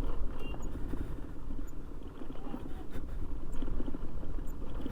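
Motorcycle engine running at low speed, with wind rumbling on the microphone.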